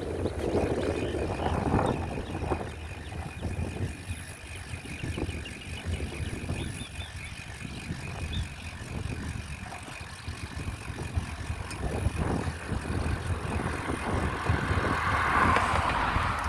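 Bicycle being ridden, with the bike's rolling noise under a steady rumble of wind on the microphone. A brighter hiss builds near the end.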